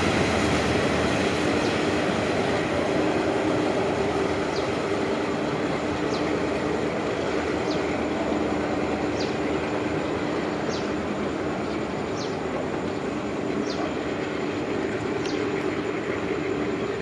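Locomotive-hauled passenger train rolling away down the line: wheel-on-rail rumble with a steady diesel hum, slowly fading as the train recedes.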